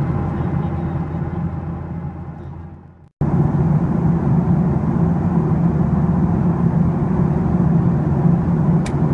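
Steady cabin noise of a Boeing 737-800 in flight: the low hum of its CFM56 engines and the rush of air past the fuselage. It fades out about three seconds in and cuts abruptly back in.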